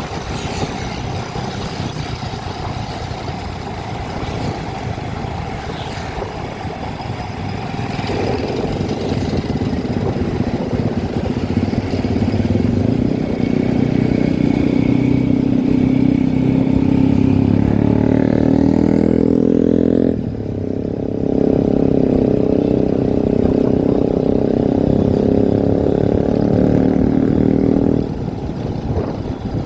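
A vehicle engine under way. It pulls harder and rises in pitch for several seconds, drops suddenly about two-thirds of the way through as at a gear change, holds steady, then eases off near the end.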